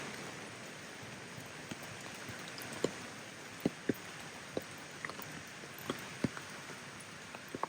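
Steady rain falling, an even hiss, with scattered single drops landing close by as sharp ticks, most of them in the middle of the stretch.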